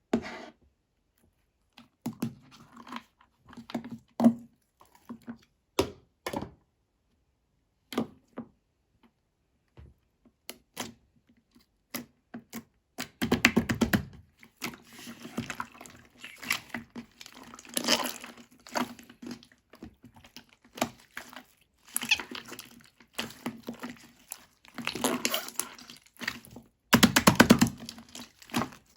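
Slime being squeezed and poked by hand, giving sticky clicks and small pops. There are scattered single clicks at first, then from about halfway in, runs of dense crackling every few seconds as the slime is worked harder.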